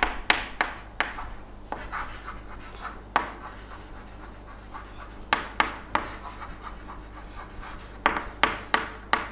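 Handwriting: sharp taps and short scratches of a writing implement on a surface, in clusters of strokes with a quieter pause in the middle.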